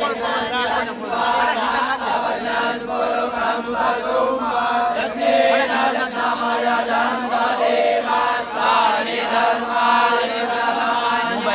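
A group of voices chanting Vedic Sanskrit mantras together in a steady recitation, the pitch stepping between a few held notes.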